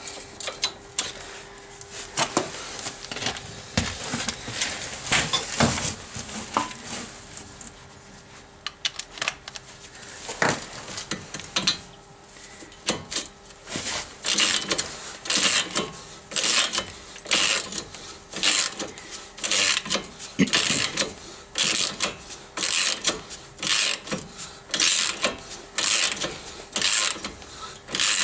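Metal tool clicks and knocks, then a ratchet wrench worked in steady strokes on a sway bar link nut, with a burst of ratchet clicking about three times every two seconds.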